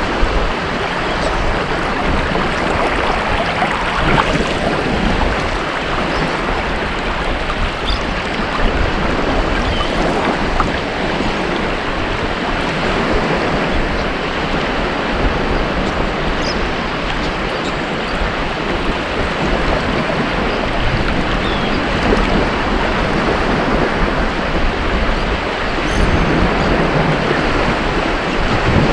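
Ocean surf: waves breaking and washing up the beach in a steady rush that swells and eases gently, with a faint crackle of fizzing foam.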